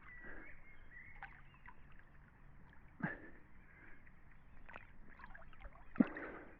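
Water splashing and lapping from a person swimming, close to the microphone, with two louder splashes about three seconds apart.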